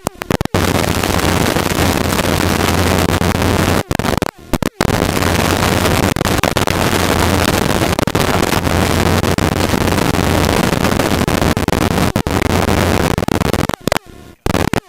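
Loud, steady helicopter cabin noise from the engine and rotor, with a low hum under a wide hiss. It cuts out abruptly for a moment about four seconds in and again near the end.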